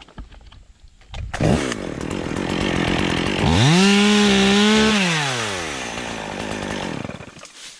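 Stihl MS 201 top-handle two-stroke chainsaw. It comes in about a second in, revs up to full throttle for about a second and a half, then drops back and stops near the end.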